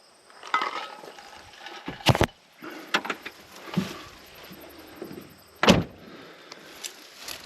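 Rustling and handling noises with a few sharp knocks, two of them loud: one about two seconds in and one past the middle.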